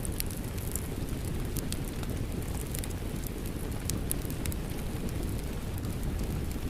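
Steady rain blended with a crackling wood fire: a constant low rumbling hiss, with scattered sharp crackles and pops from the burning logs.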